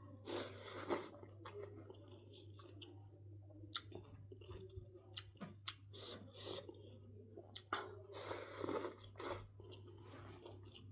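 Close-miked chewing and mouth sounds of a person eating, with irregular wet clicks and crunches, over a faint steady low hum.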